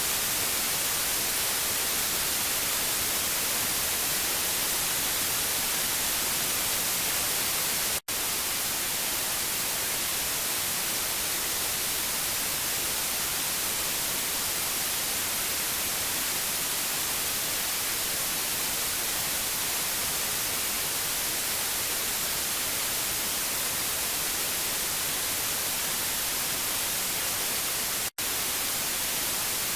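Steady white noise hiss, brightest in the high frequencies, cutting out for an instant twice: about eight seconds in and near the end.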